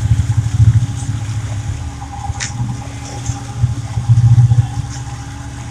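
Boat's engine running underway, a steady low rumble that swells and fades a little.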